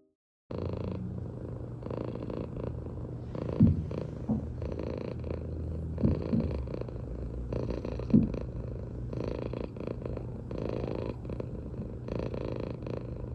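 A domestic cat purring close to the microphone, a steady low purr that swells and eases with each breath about once a second. It starts abruptly about half a second in, and a few short bumps, the loudest sounds, cut through it at about four, six and eight seconds.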